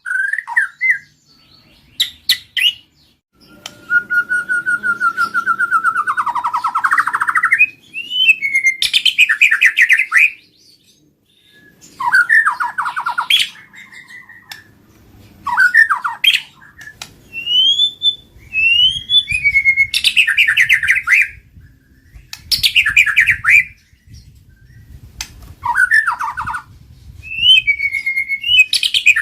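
White-rumped shama singing: a run of loud phrases of rapid trills, whistled slides and harsh notes, each a second or two long with short pauses between.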